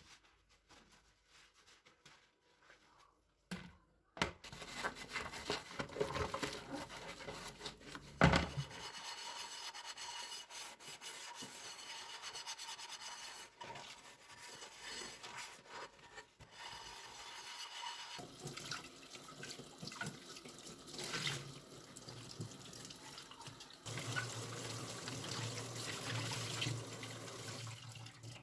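Kitchen tap running into the sink, with scattered clicks and one sharp knock about eight seconds in. The water starts about four seconds in.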